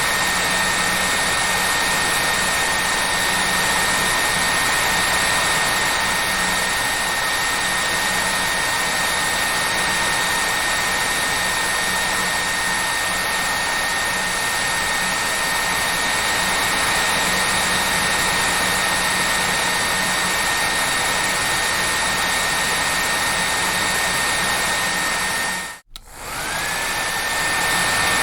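Hair dryer running steadily: a loud, even rush of air with a high motor whine. Near the end it cuts out for an instant and comes back, the whine rising back up to pitch.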